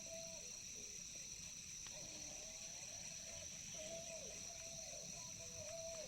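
A steady, high-pitched chorus of crickets trilling without a break, with faint distant voices underneath.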